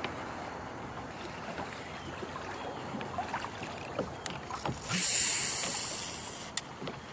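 Water and small knocks around a fishing kayak, with a loud hiss about five seconds in that fades away over a second or so.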